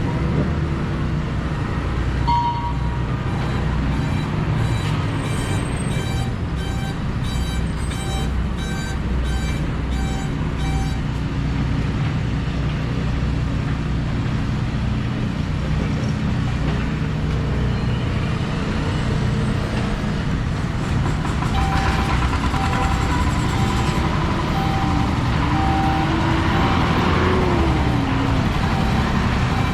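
Street traffic with a motor vehicle engine running steadily close by, and two runs of electronic beeping at about two beeps a second, one a few seconds in and another near the end.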